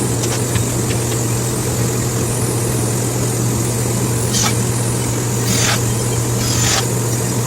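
Steady low mechanical hum with a rushing noise, broken by three short hissing bursts in the second half.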